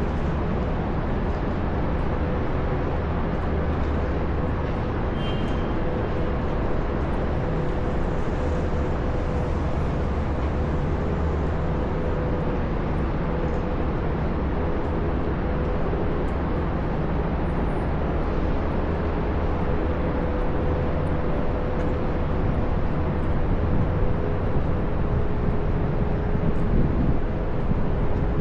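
Downtown street traffic noise: a steady low rumble of vehicles with a constant hum over it, growing a little louder near the end.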